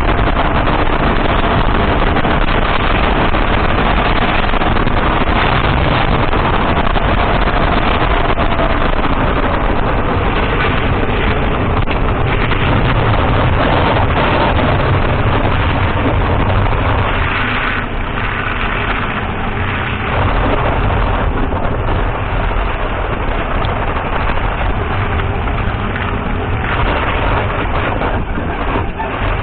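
Datsun on-DO driving, heard from inside the cabin: a steady wash of road and tyre noise with the engine running under it, easing slightly about two-thirds of the way in.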